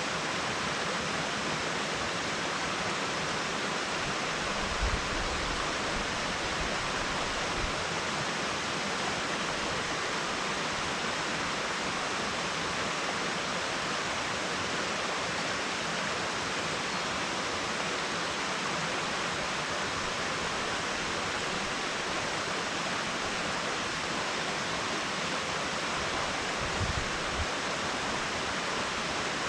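Steady, even rush of water from a waterfall, a constant hiss-like noise with no rhythm or break.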